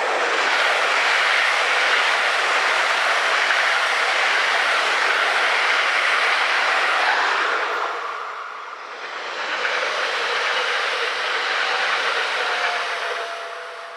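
A train passing close by: loud, steady rolling noise of wheels on rail that dips briefly about eight seconds in, swells again, and fades near the end, where a faint thin squeal lingers.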